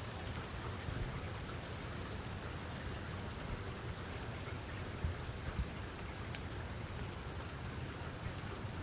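Steady rainfall, a continuous hiss with scattered individual drop impacts and a few soft low thuds about five seconds in.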